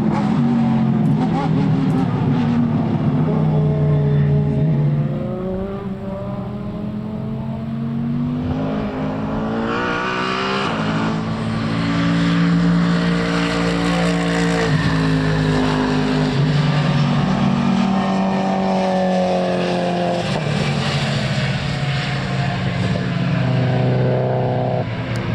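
Racing car engine at a circuit, accelerating with its note rising in pitch, dropping at gear changes and rising again several times as the car runs past.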